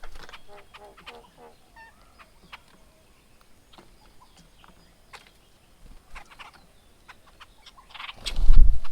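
A bird calls a quick run of about six repeated notes in the first second and a half, followed by scattered sharp ticks and taps. About eight seconds in comes the loudest sound, a short deep thump with a rush of noise.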